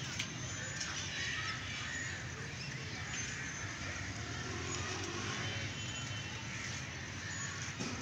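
Steady background hum and noise with faint, scattered bird chirps and whistles; no loud macaw calls.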